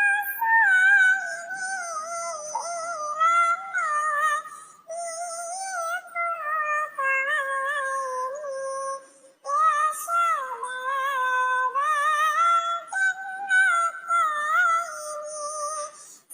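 High, synthetic-sounding singing voice carrying a sholawat melody in wavering phrases, with short breaks about five seconds in and again near the middle.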